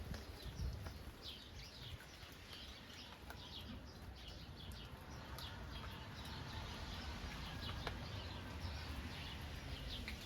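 Small birds chirping repeatedly, short high calls, over a steady hiss of rain falling on the countryside.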